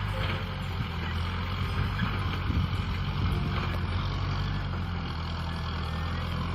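Kubota M6040 SU tractor's diesel engine running steadily under load while ploughing.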